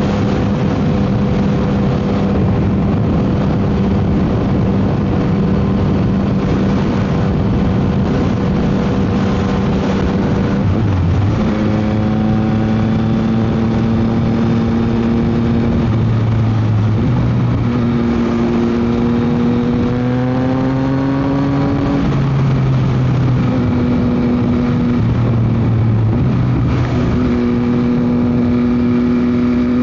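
Yamaha MT-09 SP's three-cylinder engine through a Dominator GP aftermarket exhaust, heard while riding. It holds steady revs at first; from about halfway the revs change several times, with one climb of a few seconds that drops away, all under heavy wind noise.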